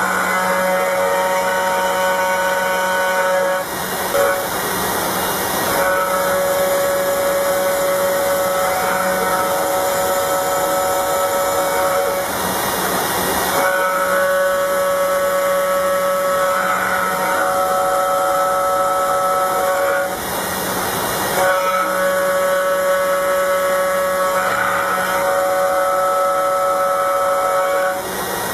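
Small CNC router machining aluminium: a steady whine made of several tones, broken about every eight seconds by a noisier, hissing spell lasting a second or two.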